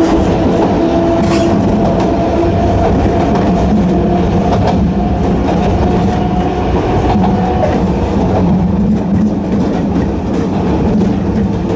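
Narrow-gauge electric train running on the Hokusei Line, its nose-suspended traction motors giving a steady whine over the rumble and clatter of wheels on rail. The motor whine drops away about eight seconds in while the running noise carries on.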